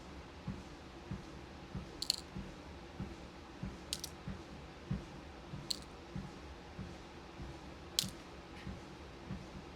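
Steady footfalls on a walking pad treadmill, about one and a half steps a second, over the pad's low steady hum. Four sharp clicks of beads and plastic bead containers being handled.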